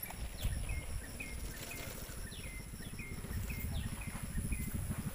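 A bird calling over and over, a short falling chirp about twice a second, over a low uneven rumble.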